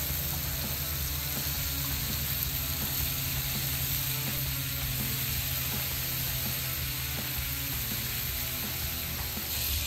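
Cauliflower florets sizzling and frying in oil and melted butter on a hot flat-top griddle as they are brushed, with steady background music over it.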